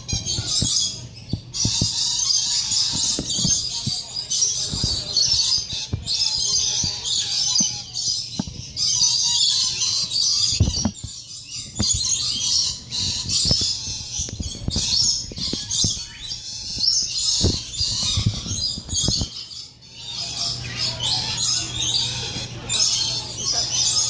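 Many small birds chirping loudly and without pause in a dense, high-pitched chorus, with frequent short low thumps.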